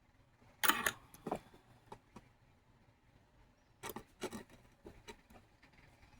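Short scrapes and clicks of small tools and metal pieces handled on a jeweler's bench, in two clusters about three seconds apart, the first the loudest.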